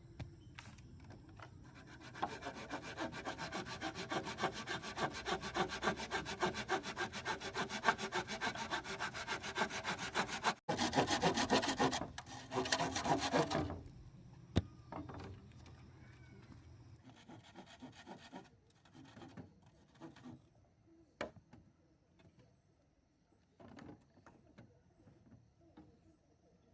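Hand saw cutting bamboo in quick, even strokes, louder for a few seconds toward the end of the cut before stopping about halfway in. A few scattered knocks of bamboo being handled follow.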